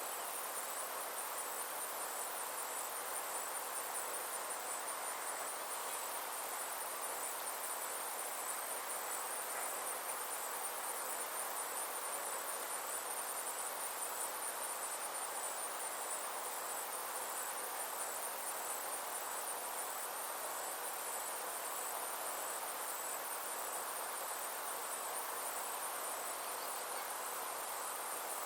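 Insects trilling steadily: a high-pitched, rapidly pulsing chirr that goes on without a break, over a soft, even hiss of background noise.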